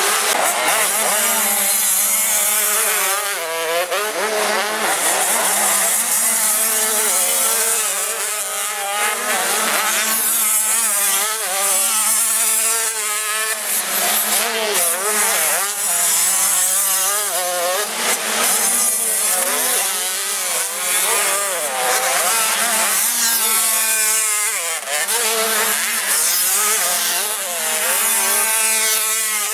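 Several 85 cc two-stroke motocross bikes racing, their engines revving up and down with overlapping, repeatedly rising and falling pitches, over a steady low drone.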